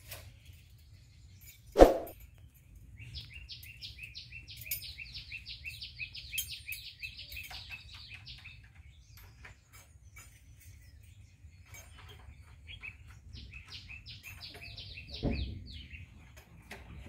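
A bird singing in two long runs of rapid, repeated downward-sliding high notes, about four a second, each run lasting several seconds. A single sharp knock about two seconds in is the loudest sound.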